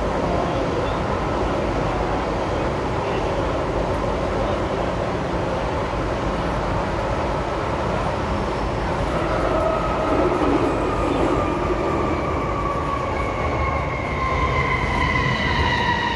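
MTR M-Train electric multiple unit running, with a steady rumble of wheels and car body. About nine seconds in, a whine from the traction motors sets in and falls slowly in pitch as the train slows.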